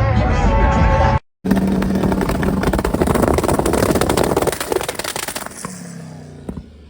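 Music that cuts off about a second in, then a loud car engine running with a dense, rough exhaust note. It fades out with its pitch falling near the end.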